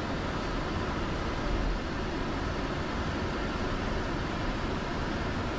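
Steady flight-deck background noise of a Boeing 747-400 on the ground, with its four engines running at idle.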